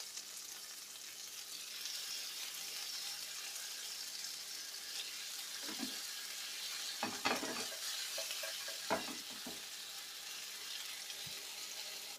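Paneer tikka skewers sizzling in shallow oil in a hot nonstick frying pan: a steady, high frying hiss.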